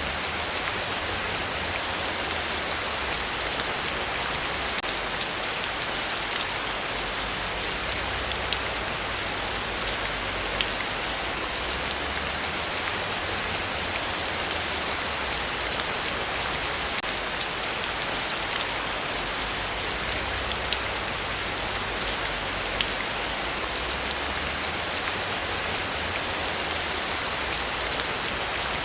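Heavy rain falling steadily, a dense even hiss with scattered close drop ticks and a faint low rumble underneath.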